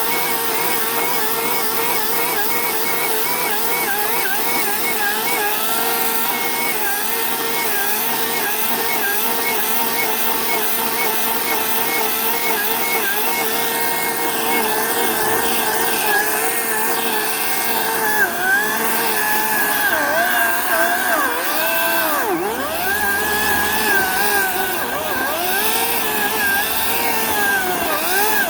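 Ryobi 18-inch battery-powered electric chainsaw running with a steady high whine. From about halfway through, its pitch dips and recovers again and again as the chain bogs under load cutting into birch wood.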